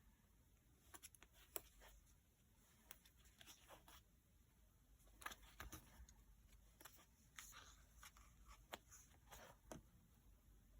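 Faint scattered taps, clicks and short rustles of paper and stickers being handled and placed during journal decorating.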